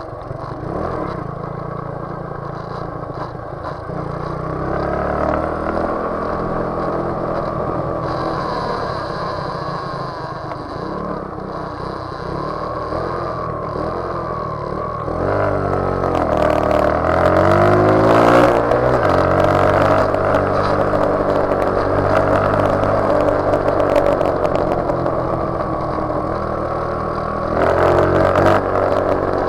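Motorcycle engine running under way, its note rising and falling as the throttle is worked. It is loudest in the second half, with a sharp climb and drop in pitch just past the middle.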